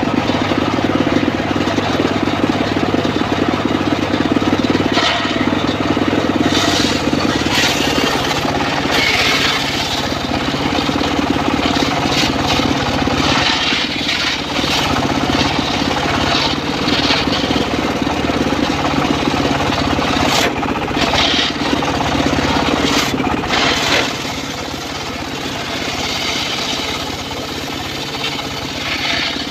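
The engine of a homemade circular-saw sawmill runs steadily under load. Brief hissing bursts come and go over it, typical of the blade ripping through a teak log.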